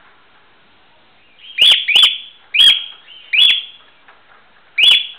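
Pet cockatiel calling: five loud, high calls, each rising quickly to a brief held note. The first four come in quick succession starting about a second and a half in, and the fifth comes near the end.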